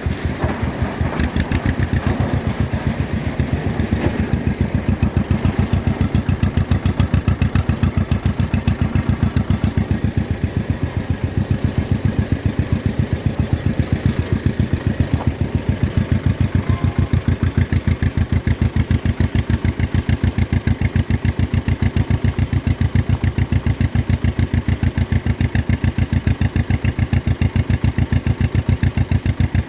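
1953 John Deere 40's two-cylinder engine running steadily, with an even, rapid pulse of firing strokes.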